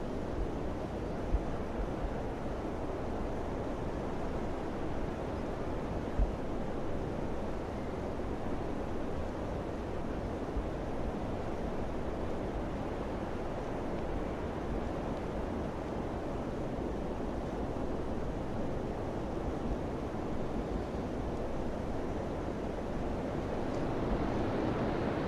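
Steady wind blowing, with two brief low thumps of gusts on the microphone in the first six seconds.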